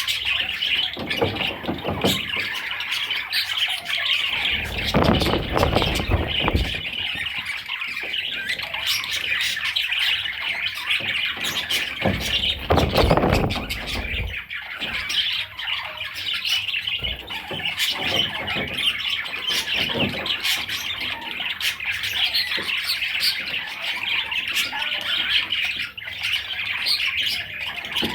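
Pet budgerigar chattering and warbling continuously in fast, scratchy squawks and chirps. Two stretches of low rumbling noise come in, about five seconds in and again around thirteen seconds.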